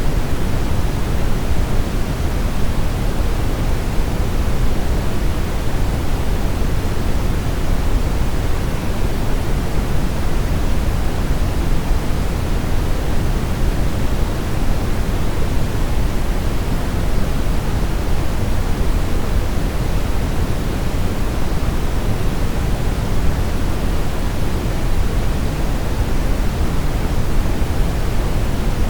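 Steady brown noise: an even, unbroken rushing hiss weighted toward the low end, with no change or events.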